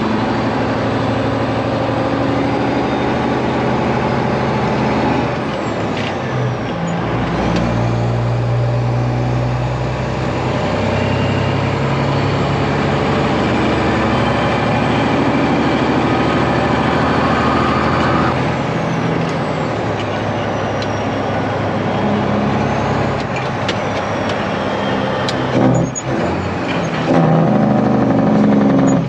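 Kenworth truck's Detroit Diesel engine running on the road, its note shifting up and down a few times.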